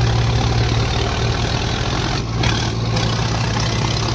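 Tractor diesel engine running steadily with a deep, even hum.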